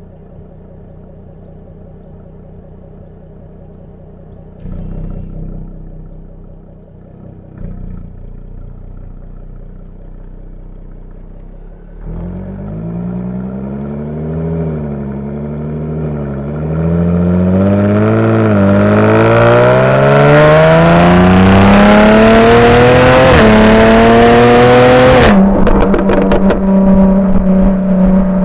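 Jaguar F-Type V6S's supercharged 3.0-litre V6 through its factory exhaust in dynamic mode: idling, two short blips of the throttle, then the revs climbing for several seconds, loud at the top. The throttle shuts suddenly near the end and the exhaust gives a quick run of pops and crackles before settling to a steady note.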